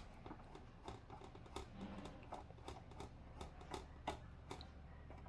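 Faint, irregular clicks and taps of a screwdriver working small screws loose, about a dozen over a few seconds.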